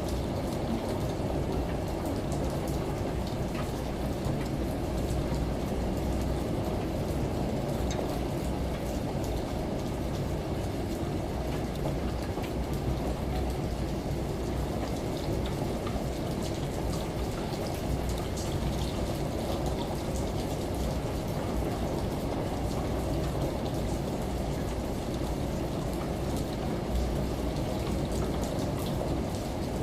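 Steady rain and running shower water layered over a low, even washing-machine hum.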